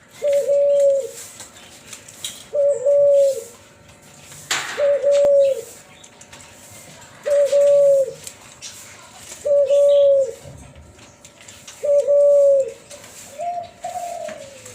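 A hybrid dove (Kelantan spotted dove crossed with a tangerine ringneck dove) cooing in a steady, flute-like note, about a second long and repeated every two seconds or so, seven times. A short noisy rustle comes about four and a half seconds in.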